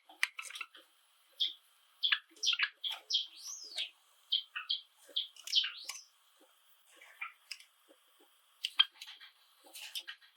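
Pet Java sparrows chirping and singing: a run of quick chirps and swooping notes in the middle, then sharp clicking notes near the end.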